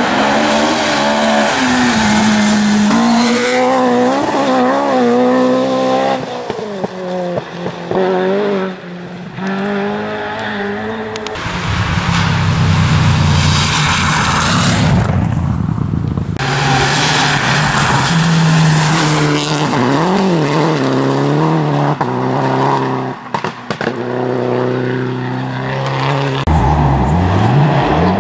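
Rally cars driven hard on a special stage: engines revving up and down through gear changes and lifts of the throttle, with a steady hiss of tyre and surface noise as they pass.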